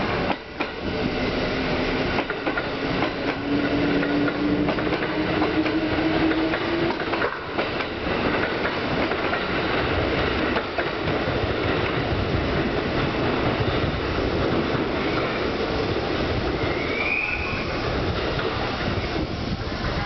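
An electric train moving through a station, its wheels clattering over the rails. A motor whine slowly rises in pitch over the first few seconds, and a short high squeal comes near the end.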